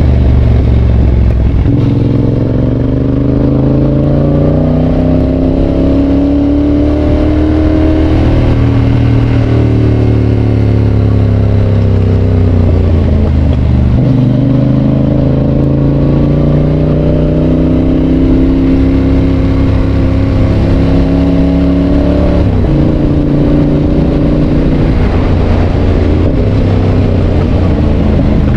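Yamaha Tracer 7's 689 cc parallel-twin engine through an aftermarket GPR exhaust, pulling under way. The engine note climbs slowly and drops sharply twice, about halfway through and again near the three-quarter mark, as it shifts up a gear.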